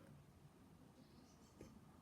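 Faint bird chirps: a short cluster of high chirps about a second in, over a low background hiss, with a soft click near the end.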